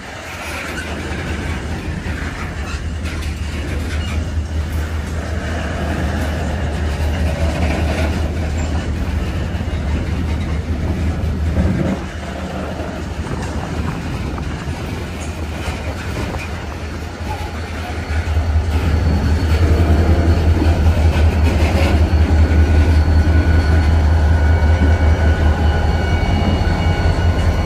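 Wheeling & Lake Erie diesel freight train running by, a steady deep rumble that gets louder about two-thirds of the way in.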